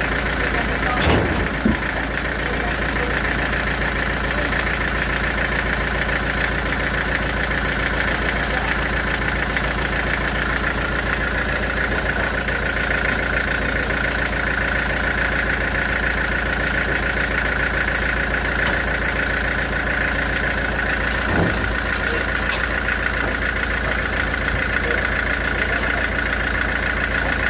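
Sawmill machinery running steadily, a low engine-like hum under a constant high whine. There are two short knocks, about a second in and about three-quarters of the way through.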